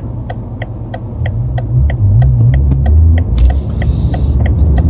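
BMW M5's engine and road rumble heard from the cabin, getting louder about two seconds in. Over it, the turn-signal indicator ticks steadily about three times a second. A brief hiss comes near the end.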